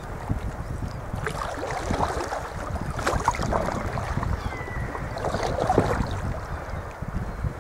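Water splashing and lapping around a sea kayak, with irregular splashes about a second, three seconds and five to six seconds in, over a steady low rumble of wind on the microphone.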